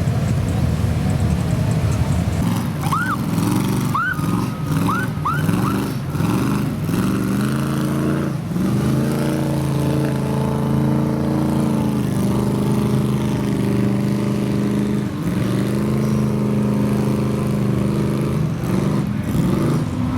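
Off-road vehicle's engine revving in quick blips, then held wide open in long pulls with brief drops in between, as it drives hard through mud. A few short high chirps come about three to five seconds in.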